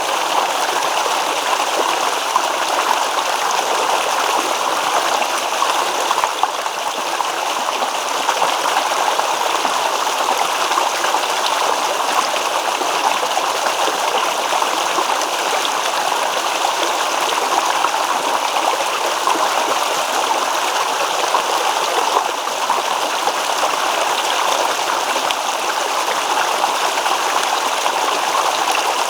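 Babbling stream: water rippling and splashing over stones, a steady, unbroken rush.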